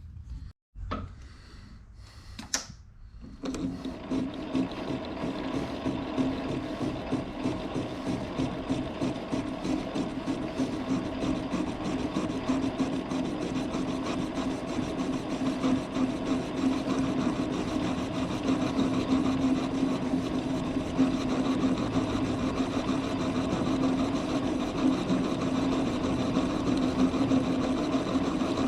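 A shop machine tool starts about three seconds in and runs steadily, with a constant hum and a fast, even mechanical chatter that slowly grows louder.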